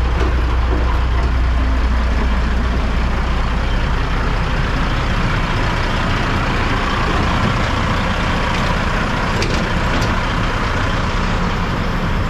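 Caterpillar diesel engine of a 2003 Kenworth T800 dump truck running, with a heavy low drone that eases about five seconds in.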